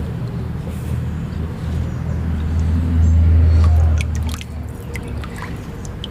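Water splashing and dripping as a fish is grabbed by hand from a bucket of water, with scattered drips and splashes in the second half. Under it runs a low steady hum that swells about halfway through and then drops back.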